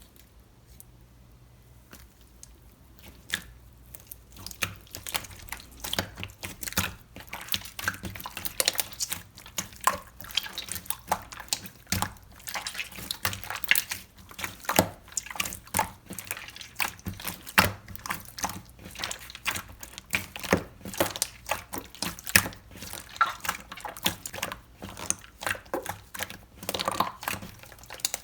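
Slime being squeezed, poked and stretched by hand, making a dense, irregular run of sticky, wet clicks and pops. The clicks start about three seconds in.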